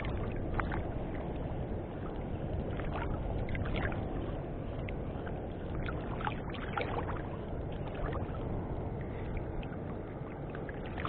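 Water sloshing and lapping against a small fishing boat, a steady wash broken by scattered light ticks and splashes.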